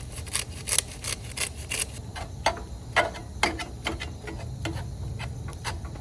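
Pepper grinder being twisted over a skillet of ground beef: a run of irregular rasping clicks, a few a second, thinning out toward the end.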